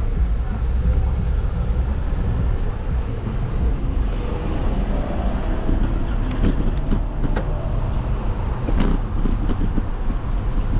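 Steady low rumble of wind buffeting the microphone and road noise while riding, with a few short clicks or knocks between about six and nine seconds in.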